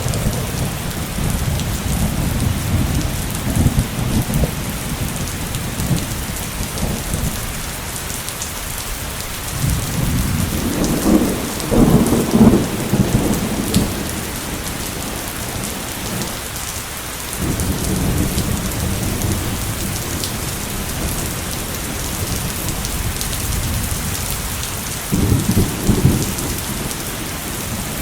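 Heavy downpour hissing steadily, with thunder rumbling low underneath. The thunder swells into louder rolls about halfway through and again near the end.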